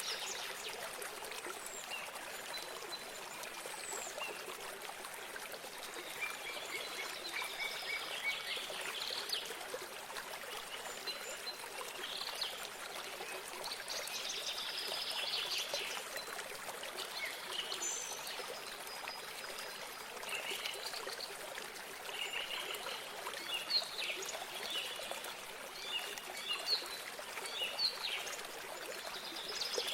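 Small songbirds chirping and trilling in scattered bursts over the steady trickle of running water.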